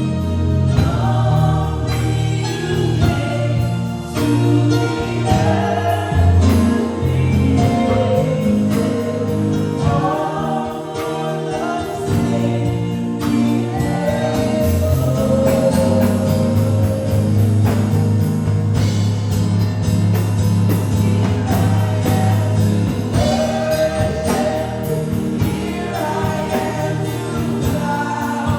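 Gospel worship music: a congregation or worship team singing over a band with a sustained low bass.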